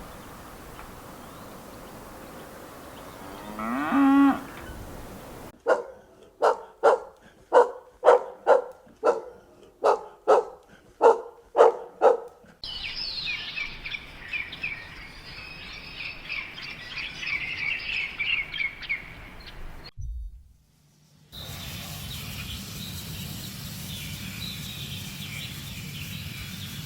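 A run of animal calls from several clips cut together. One rising call comes about four seconds in, then a quick series of short repeated calls at about two a second, then high bird chirping. After a brief break there is a steadier background of animal sound.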